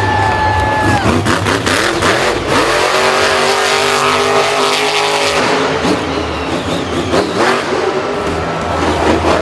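Car engines revving up and down in the manner of auto racing, loud and continuous, with pitch shifting as they accelerate and ease off.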